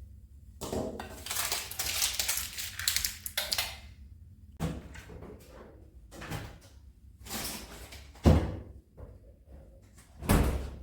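Household handling sounds in a small room: rustling and scraping in spells, with two sharp knocks, one about eight seconds in and one near the end, like a door or cupboard being shut.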